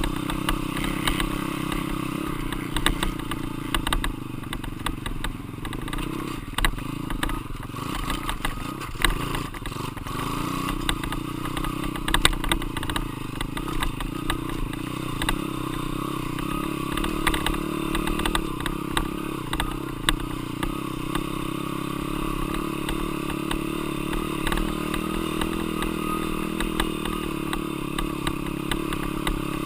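Dirt bike engine running steadily, with many short clattering knocks over it; the engine note dips briefly about nine seconds in, then holds.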